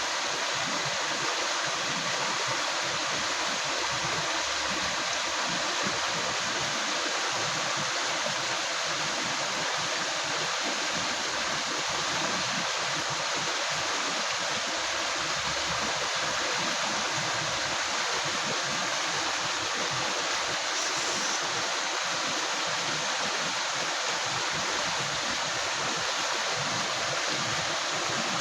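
A river running over rocks: a steady, even rush of flowing water with gurgling in the lower range.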